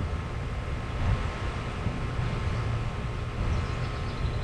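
Central air conditioner's outdoor condensing unit running, a steady low mechanical hum of compressor and fan.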